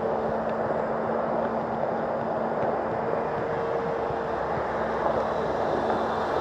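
The brushless electric motor and propeller of an E-flite Extra 300 RC aerobatic plane in flight: a steady hum with faint tones that fade in and out, over an even rushing noise.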